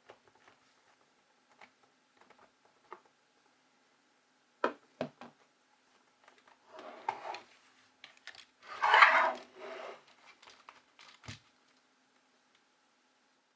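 Handling noise: scattered light clicks and knocks, then two stretches of rustling and crinkling, the louder one about nine seconds in.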